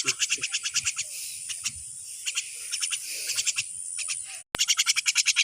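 Frogs calling in rapid trains of clicky pulses, about ten a second, over a steady high-pitched insect whine. The sound cuts out for a split second near the end.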